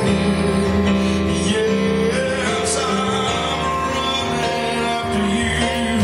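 Slow live church worship music: a band holding sustained chords.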